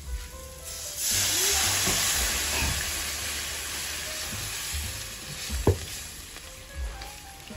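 Food sizzling in a hot pan. The sizzle starts suddenly about a second in and slowly dies down, with one sharp knock later on.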